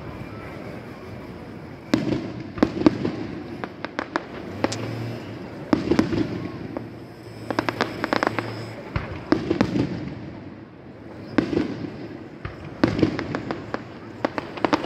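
Aerial fireworks shells bursting overhead, with sharp bangs every one to two seconds, some in quick clusters of smaller pops.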